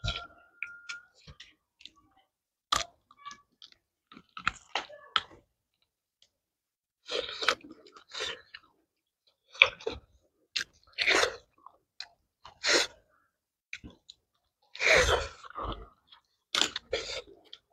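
Close-miked chewing and eating mouth sounds of two people eating pork, rice and kholar beans by hand, coming in irregular short bursts with brief silent gaps between mouthfuls.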